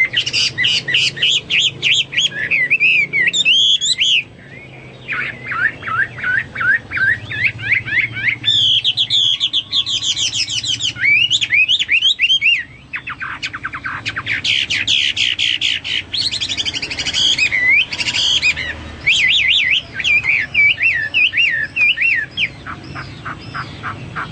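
Chinese hwamei (melodious laughingthrush) singing loud, rapid phrases of repeated whistled notes that swoop up and down, with brief pauses between phrases.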